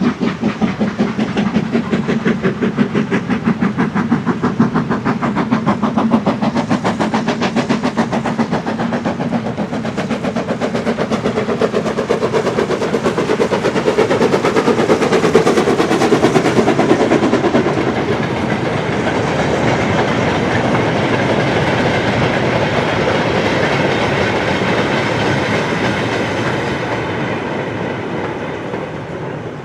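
BR Standard Class 9F 2-10-0 steam locomotive 92214 working a goods train past, its exhaust beating in a steady rhythm that grows loudest about halfway through. The beats then give way to the clatter and rumble of the goods wagons rolling by, fading toward the end.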